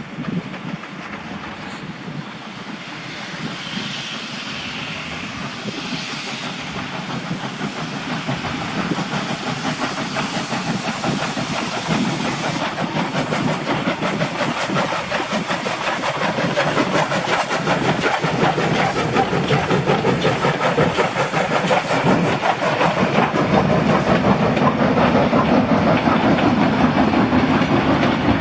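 Victorian Railways K class steam locomotive hauling passenger cars, with steam hissing and wheels clattering over the rails. It grows steadily louder as the train approaches.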